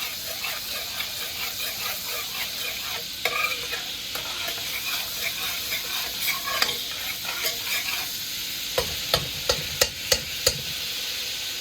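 Butter sizzling in a hot pot on a stove turned up high, a steady hiss. Near the end, about six sharp clicks or knocks in quick succession.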